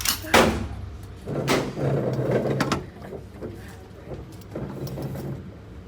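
Two gunshots about a second apart, the first the louder, each ending in an echoing tail inside an indoor shooting range.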